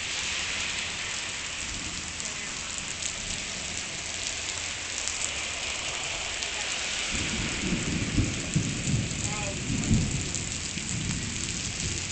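Heavy rain falling as a steady hiss, with a low rumble of thunder rolling in over the second half, loudest around eight and ten seconds in.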